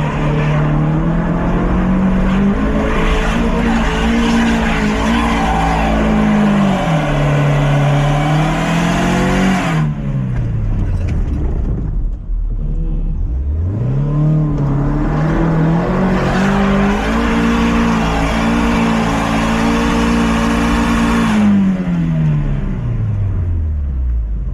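Mazda MX-5's four-cylinder engine run hard at high revs under load in two long pushes of several seconds each, the pitch wavering and then dropping away at the end of each, with a short lull between them.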